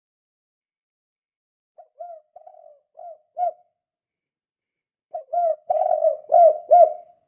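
Spotted dove (tekukur) cooing in its 'kuk 2' call style. A soft series of coos comes about two seconds in, and a louder run of coos follows near the end.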